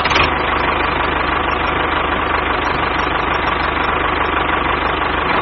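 Toy mini diesel engine running steadily with a fast, even beat.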